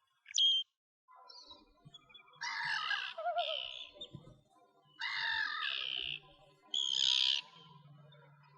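Bird calling: a short sharp note near the start, then three loud phrases of song, each lasting up to about a second.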